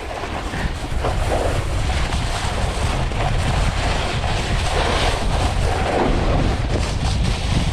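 Wind buffeting a mouth-mounted GoPro's microphone while snowboarding downhill: a steady, loud rushing noise with a heavy low rumble.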